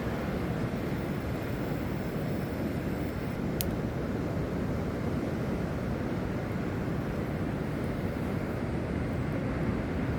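Steady low rumbling noise of wind and surf at the shore, with one brief sharp click a few seconds in.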